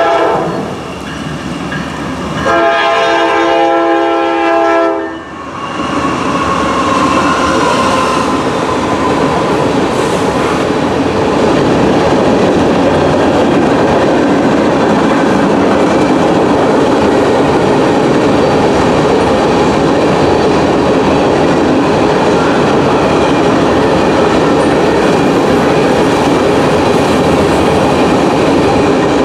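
Norfolk Southern GE D9-40CW diesel locomotive sounding its horn: a brief blast at the start, then a longer chord about two and a half seconds in, lasting roughly two and a half seconds. Then a steady wheel-on-rail rumble with clickety-clack as the loaded grain train's cars roll past.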